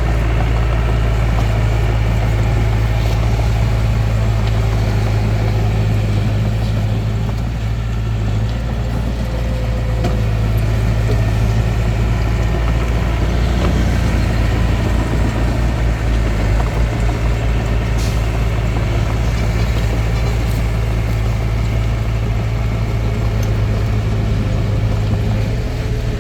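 Hitachi DX45M bulldozer's diesel engine running steadily under work, a continuous low drone with a slight dip about seven seconds in.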